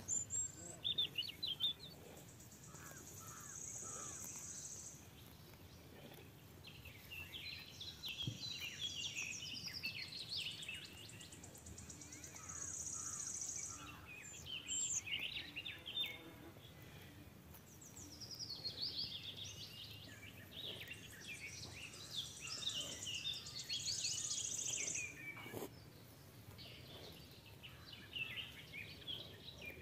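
Birds chirping outdoors, with a high, steady trill that comes three times, each about two seconds long.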